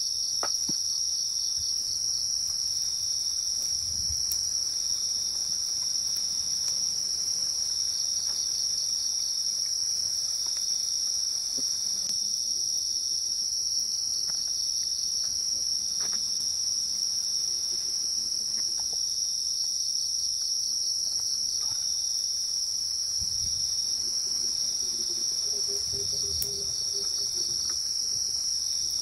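Steady night chorus of crickets and other insects: a continuous high shrill with a rapid trilling call that comes back every several seconds. A few faint knocks and clicks sound beneath it.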